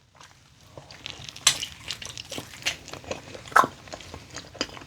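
Close-up biting and chewing of crunchy snack food: a string of sharp crunches, with a loud crunch about a second and a half in and another about two seconds later.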